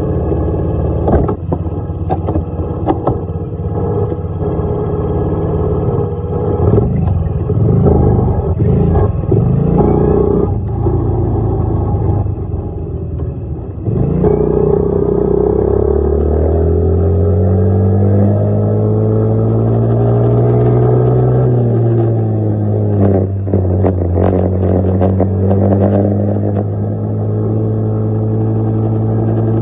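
Dirt bike engine running under load, rough and clattery with scattered knocks for the first half. About halfway through it revs up in a rising glide and then holds a steady, higher engine note, dipping briefly once near the three-quarter mark.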